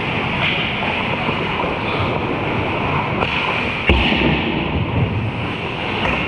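Hockey game play: a steady scraping hiss, with one sharp knock about four seconds in.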